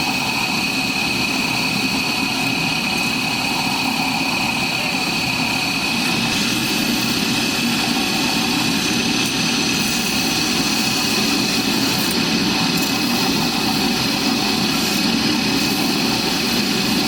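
Workshop machine motor running steadily with a constant high whine, unbroken throughout.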